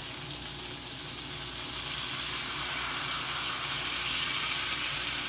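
Steaks sizzling in a hot skillet, a steady frying hiss that grows a little louder about two seconds in.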